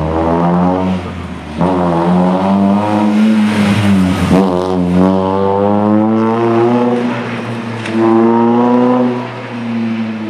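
Rally car's engine revving hard, its pitch climbing through the gears and dropping back at the shifts and lifts, about a second and a half in, around four seconds in and again near nine seconds. As the revs fall around four seconds in there is a brief rushing noise.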